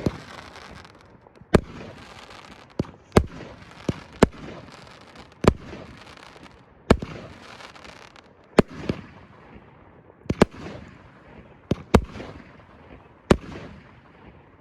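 Let It Ride firework cake by Prime Pyrotechnics firing a barrage: sharp bangs at irregular spacing, about one every second, some in quick pairs, each with a short noisy hiss trailing after it.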